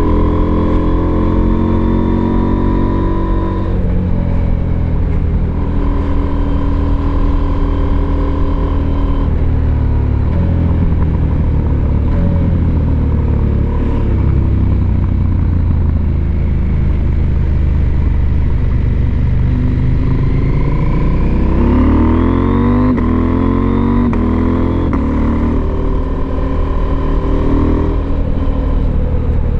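Husqvarna Norden 901's parallel-twin engine running under way, holding steady revs that step between gears. About two-thirds of the way through it revs up in a fast rising sweep.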